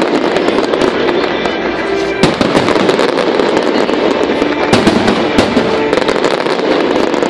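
Fireworks display: aerial shells bursting and ground mines and fountains firing in quick succession, with dense crackling throughout. Sharp bangs stand out about two seconds in and again near five seconds.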